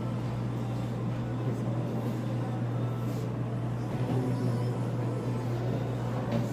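Steady low hum with an even background hiss: indoor room tone, with no distinct event standing out.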